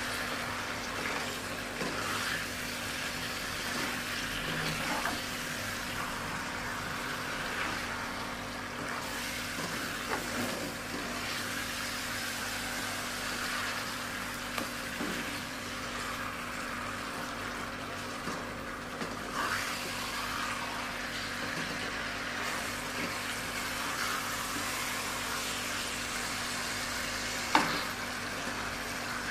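Food frying in hot oil in a pan, a steady sizzle under a faint low hum, with scattered light clicks and one sharper knock near the end.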